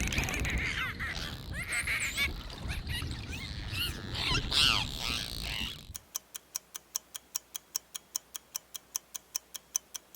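Dolphin whistles and squeaks, many short rising and falling calls over a low rumbling background, for about six seconds. Then they stop and a countdown clock ticks about five times a second.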